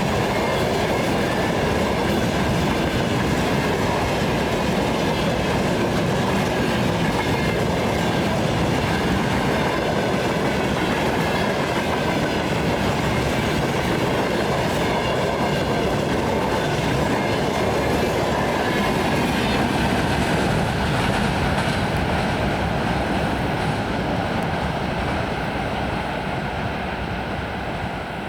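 Empty freight wagons rolling past, wheels rumbling and clacking over the rail joints, with a faint high ringing above the rumble. The sound fades over the last few seconds as the train moves away.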